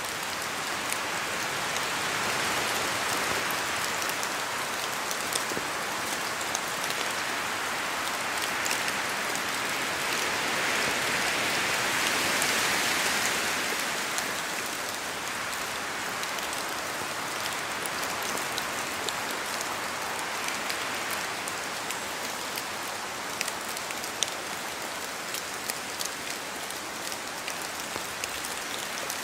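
Steady rain falling in a spruce forest, with many single drops dripping from the trees onto leaves and ground. The hiss swells a little for a few seconds near the middle, as wind passes through the branches.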